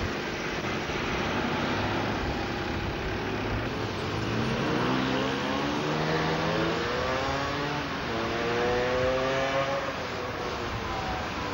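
Motor vehicle engine accelerating over a steady noise of road and wind: its pitch climbs from about five seconds in, drops back briefly near the middle, then climbs again before fading about ten seconds in.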